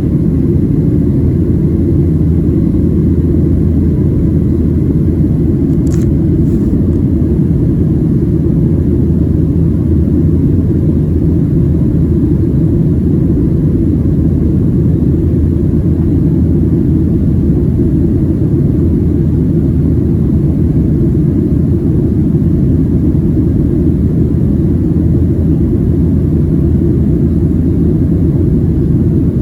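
Steady low rumble inside the cabin of a Boeing 737-700 climbing after takeoff: its CFM56-7B turbofan engines and the airflow over the fuselage. A single brief click sounds about six seconds in.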